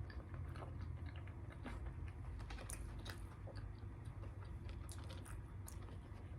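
A person chewing food close to the microphone, with scattered small crunches and wet mouth clicks over a steady low hum.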